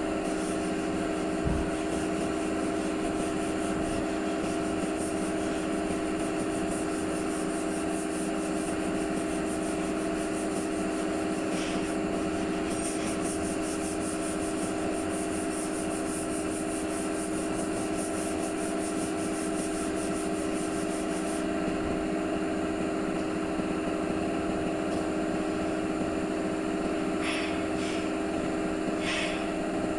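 Steady machine hum from a workshop motor, with a fast, fine high-pitched buzz over it that cuts off about two-thirds of the way through, and a few short scrapes near the end.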